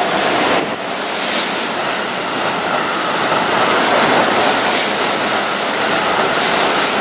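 Keihan 3000-series limited express train running alongside the platform at close range: a steady rush of wheel and running noise, swelling in hiss a few times as the cars pass.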